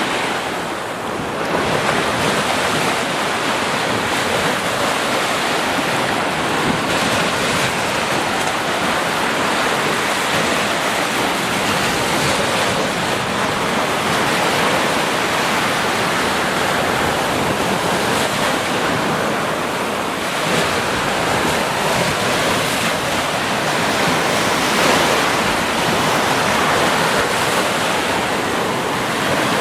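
Sea waves breaking and washing on the shore in a continuous surf, swelling and easing gently.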